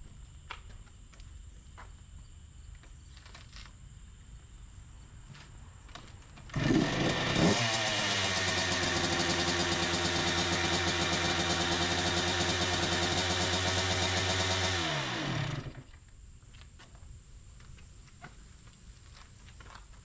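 A Honda CR two-stroke dirt bike engine starts about six and a half seconds in, blips briefly, then runs at a steady idle for about seven seconds before it is shut off, its pitch falling away as it dies.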